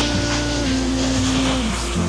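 Suzuki Hayabusa's inline-four engine running, a steady low rumble, under background music.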